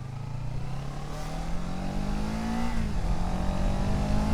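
650 motorcycle engine accelerating: its note climbs steadily, drops at an upshift nearly three seconds in, then climbs again in the next gear, with wind noise building alongside.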